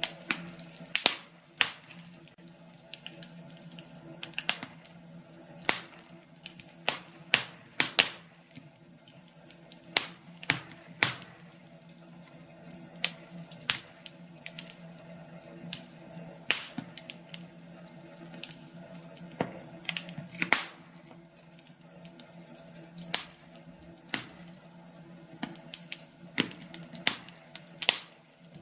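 Wood fire crackling, with irregular sharp pops and snaps over a low steady rush.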